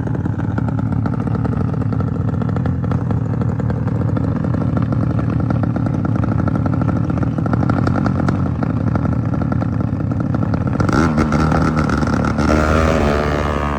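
Motorcycle engine running hard and steady, then revving up with a rising pitch about eleven seconds in.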